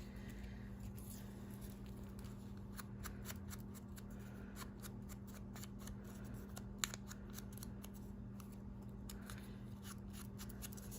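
Scissors snipping paper in short faint clicks, with a sharper snip about two-thirds of the way through, over a steady low hum.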